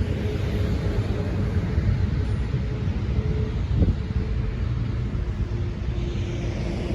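Low, steady rumble of an idling vehicle engine, with one short knock a little before the middle.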